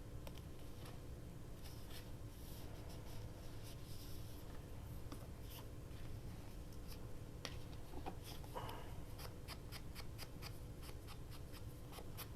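Light scratching and dabbing of an ink pad worked along the edges of paper, inking the edges by hand, with a run of quick light taps in the second half.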